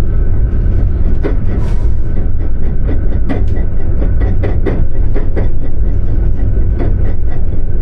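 Indonesian passenger train running, a heavy steady rumble with irregular clacks and rattles from the wheels and carriage.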